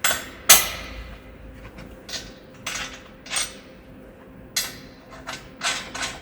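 Metal parts and tools clinking and knocking against each other, about ten separate sharp clinks spread unevenly, the loudest about half a second in.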